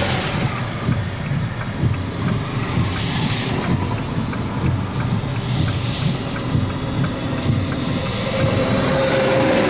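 Gusty wind buffeting the microphone: a constant low rumble with hissing gusts swelling about every three seconds.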